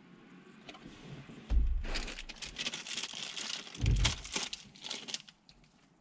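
Crinkling and rustling of car stereo wiring and parts being handled, with two dull thumps, about a second and a half in and about four seconds in.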